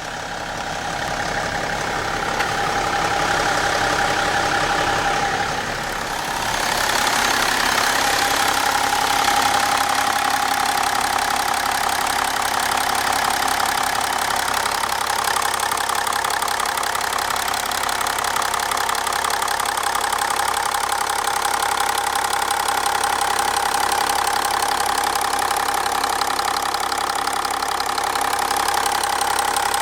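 BMW E60 530d's three-litre straight-six turbodiesel idling, with a fast, even ticking knock coming from the engine whose cause the owner does not know.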